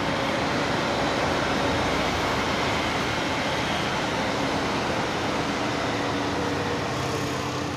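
CRH1 electric multiple unit running along the track and moving away: a steady rush of wheel and rolling noise that fades a little as it goes.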